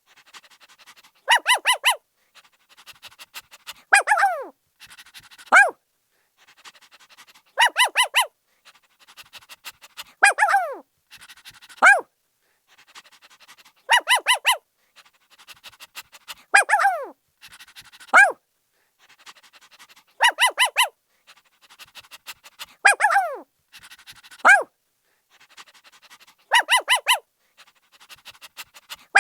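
A puppy barking in a repeating pattern: a quick run of three or four high yaps, then a longer yelp falling in pitch, then a single short bark. Soft panting sounds lie between. The same sequence comes round about every six seconds.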